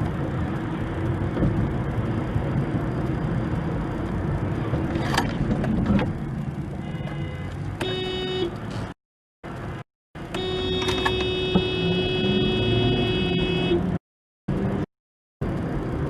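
Road and engine noise of a moving car, with a car horn honking: a short honk about eight seconds in and a long blast of about three and a half seconds after it. The sound cuts out completely a few times in the second half.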